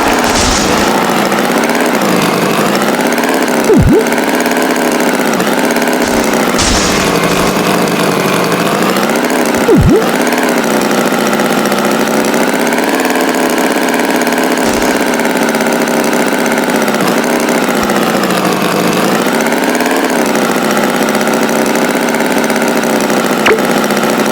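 Tractor engine running steadily, its pitch rising and falling slightly as it revs, with two brief louder blips about 4 and 10 seconds in.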